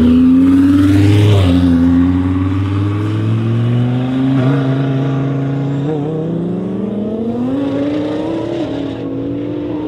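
1400 hp twin-turbo Audi R8 V10 Plus accelerating hard away from a standing start. Its engine note climbs through the gears with four quick upshifts, each a short drop in pitch, and it grows fainter as the car pulls away.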